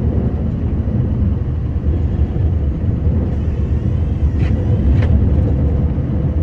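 Steady low rumble of a Scania R560 truck's V8 diesel and road noise while it plows snow, with two brief clicks about four and a half and five seconds in.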